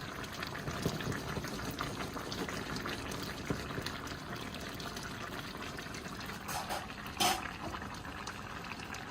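Brown stew chicken simmering in a pot: a steady bubbling crackle of the sauce. Two brief clicks about two-thirds of the way through.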